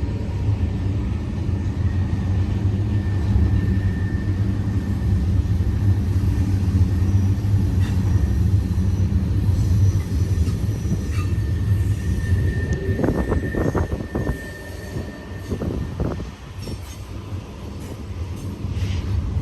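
Double-stack container train rolling past on a curve: a steady low rumble of wheels on rail with a faint, thin wheel squeal. A cluster of knocks and clanks comes about two-thirds of the way through, and the rumble eases a little after it.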